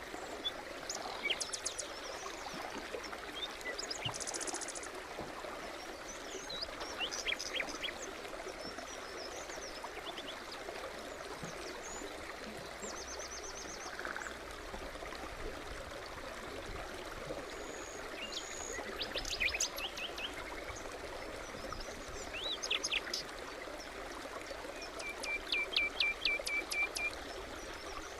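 A forest stream babbling steadily, with several birds singing short chirps and trills over it. The loudest song phrases come about two thirds of the way in and near the end, the last a rapid run of repeated notes.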